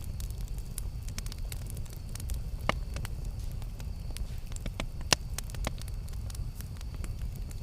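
Campfire crackling with scattered sharp pops over a low steady rumble. Two louder pops come a little under three seconds in and again about five seconds in.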